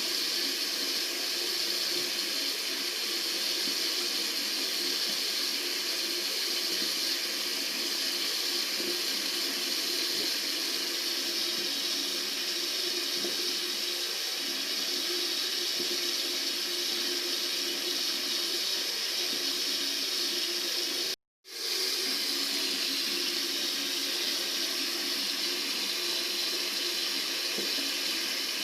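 Water running steadily from a tap in a continuous rush. It cuts out completely for about half a second about three quarters of the way through, then carries on unchanged.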